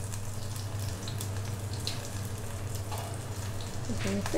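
Chopped onions, green chillies and coconut pieces sizzling gently in hot oil in a steel pan, with a steady low hum underneath.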